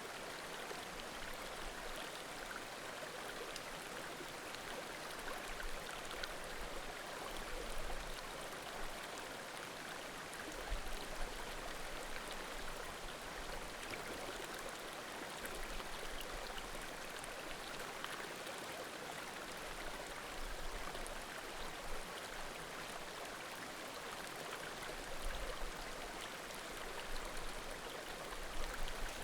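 Small mountain creek babbling steadily, with occasional faint pops from burning firewood in a bonfire.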